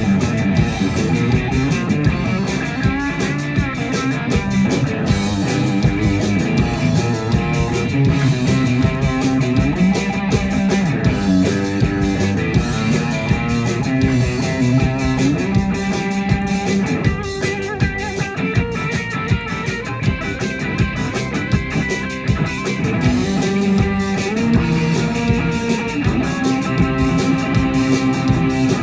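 Rock band playing an instrumental passage, led by electric guitars over a drum kit.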